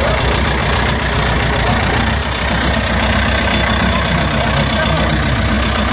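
Heavy tractor diesel engine running steadily with a low, even hum.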